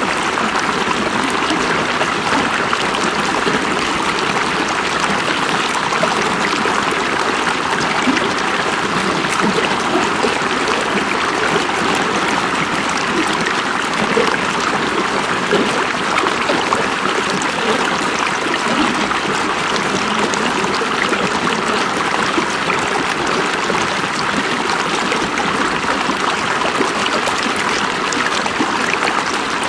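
River water running and burbling over stones in a steady, unbroken rush.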